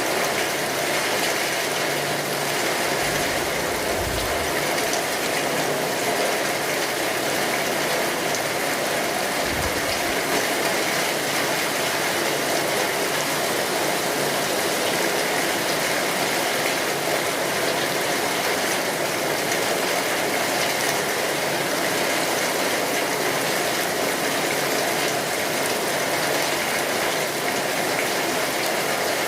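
Steady rain drumming on a tin roof, a dense even patter, with the crackle of a wood fire mixed in.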